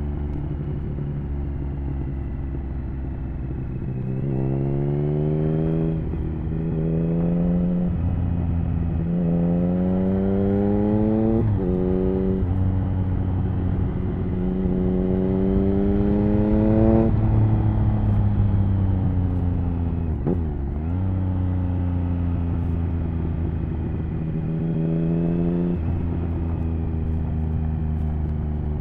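A 2007 Triumph Speed Triple 1050's inline three-cylinder engine, heard through an HP Corse Hydroform exhaust, pulling hard several times. Each time its pitch climbs and then drops sharply at a gear change, between stretches of steadier running.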